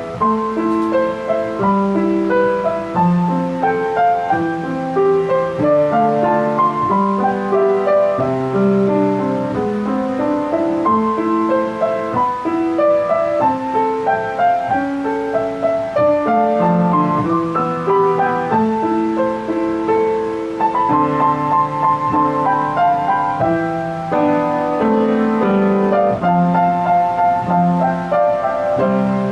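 Piano music: a melody of single notes over lower accompanying notes, playing steadily without a break.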